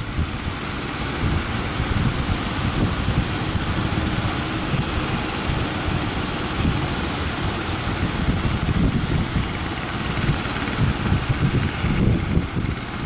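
Strong wind buffeting the microphone in gusts over the steady rush of surf.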